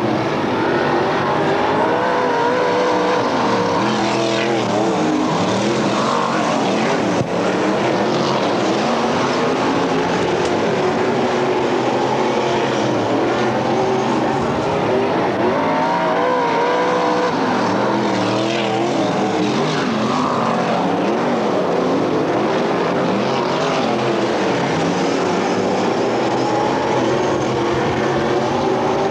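A pack of dirt-track race cars running together, several engines at once, their notes rising and falling as the cars accelerate and back off.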